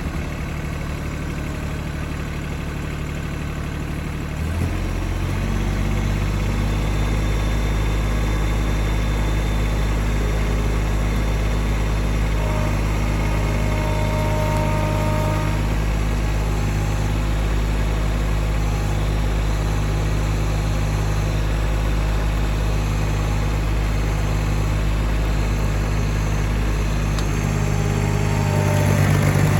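Tractor engine running, stepping up in speed and getting louder about four and a half seconds in, then holding steady, a little louder again near the end.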